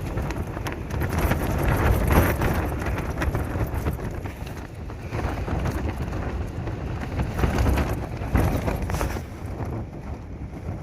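Storm wind gusting against a tent, the fabric flapping and rattling rapidly, with heavy wind rumble on the microphone. The gusts swell about two seconds in and again near the end.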